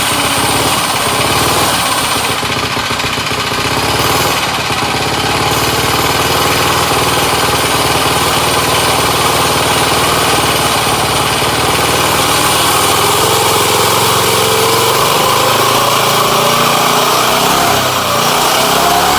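Mini bike's small engine running, with its speed rising over the last few seconds.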